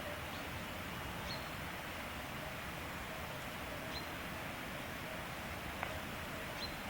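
Forest ambience: a steady hiss of background noise with a short high chirp from a small bird about every two and a half seconds, three in all, and a single click just before the end.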